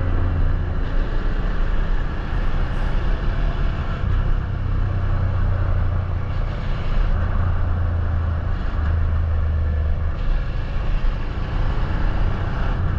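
Suzuki SV650's V-twin engine running at a steady cruising pace, its low note easing and picking up a few times with the throttle, under steady wind and road noise from riding.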